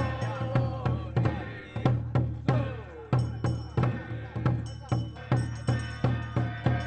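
Ritual music with drums and percussion striking a steady beat, about two to three strokes a second, under a wavering pitched melody line.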